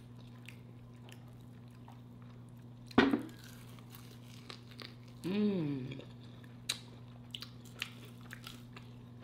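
Close-up chewing and crunching of deep-fried battered ribs, with many small wet mouth clicks. There is a sudden sharp crunch about three seconds in and a hummed "mmm" of enjoyment a little after five seconds, over a steady low electrical hum.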